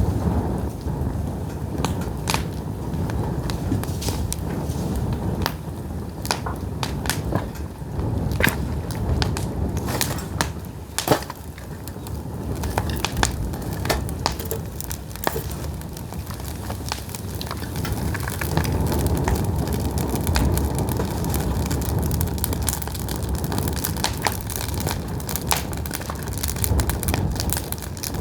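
Pine firewood burning in an open fire, crackling with frequent sharp, irregular pops and snaps over a low, steady rumble.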